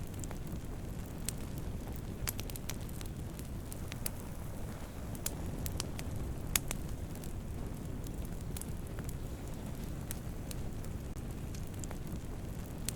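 Campfire of burning wood: a steady low rush of flames with irregular sharp crackles and pops, the loudest pop about six and a half seconds in.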